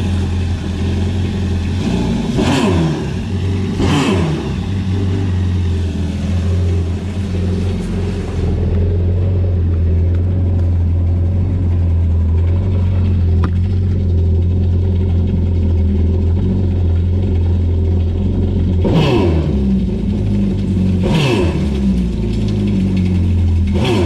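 Yamaha jet ski engine running at idle during a freshwater flush, with brief throttle blips: two about two and four seconds in and three more near the end, each revving up and dropping back to idle. The blips push flush water through the engine's cooling passages.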